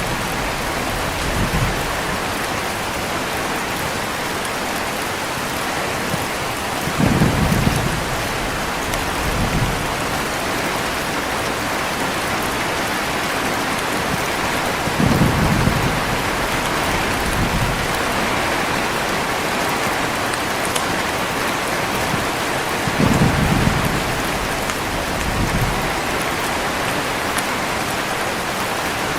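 Heavy rain falling steadily, with low rolls of thunder about every eight seconds, each followed by a weaker rumble a couple of seconds later.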